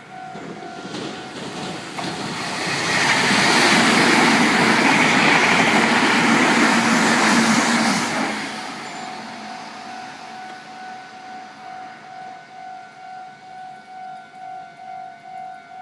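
A Meitetsu train runs over a level crossing, building to a loud rush of wheels on rail for several seconds mid-way and then fading. Throughout, the Japanese level-crossing warning bell rings in a steady, regular pulse, drowned out while the train is closest.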